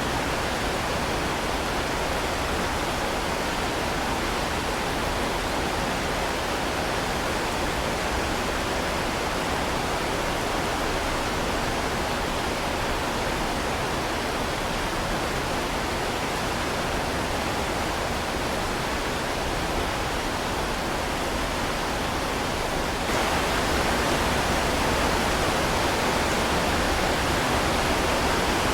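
Heavy rain falling steadily, a dense, even hiss with no separate drops or thunder standing out. Near the end it steps up slightly louder and brighter all at once.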